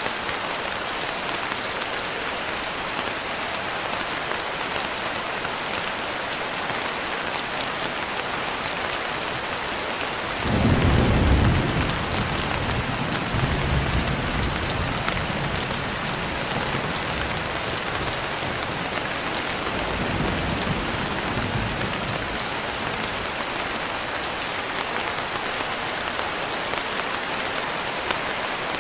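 Steady rain, with a thunderclap about a third of the way in: a loud low rumble at its start that rolls on in fainter waves for about ten seconds.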